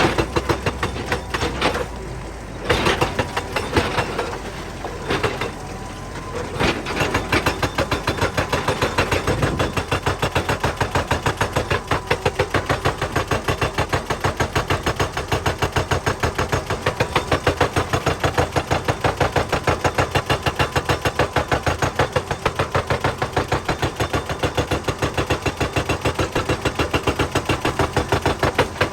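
Excavator-mounted hydraulic breaker hammering on rock: after some irregular knocks and scraping, it settles about six seconds in into fast, even blows, roughly five a second, that run on steadily.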